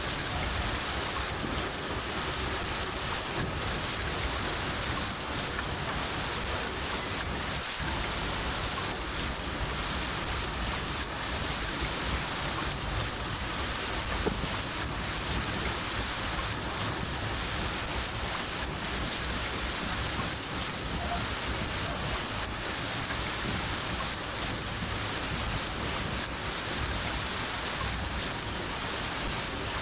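A cricket chirping steadily, about three high chirps a second, over steady rain falling.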